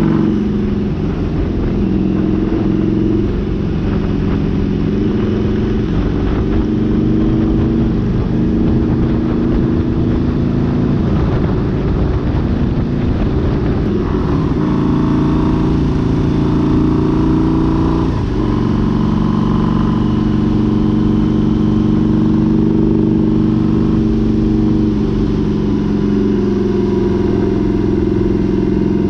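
Harley-Davidson V-Rod's V-twin engine running at road speed, heard from a camera mounted on the bike, over steady wind noise. The engine note rises and falls with the throttle and drops sharply once about two-thirds of the way through.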